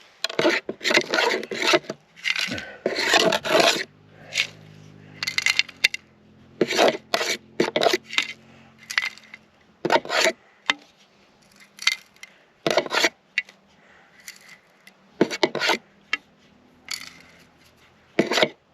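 A digging tool scraping and raking through gravelly dirt in short, irregular strokes, about fifteen of them, as a shallow metal-detector target is worked loose from the ground.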